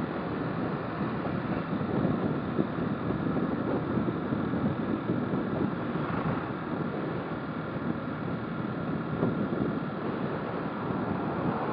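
Steady rush of wind over the microphone from a motorcycle riding at speed, with road and engine noise mixed in.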